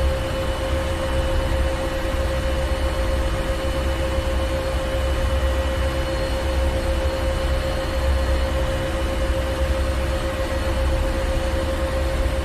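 Ship's engine room machinery running steadily: a deep rumble under a constant hum and a wash of hiss, with no change.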